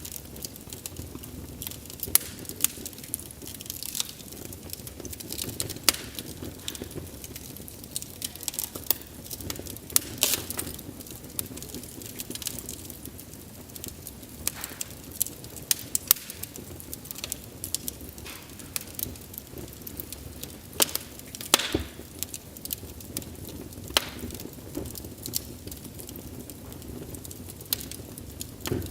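Wood fire burning and crackling, with sharp irregular pops and snaps of burning logs over a low steady rush of flame.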